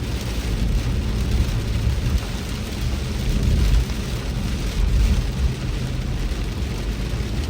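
Heavy rain striking a moving car, heard from inside, over a steady deep rumble of road and engine noise.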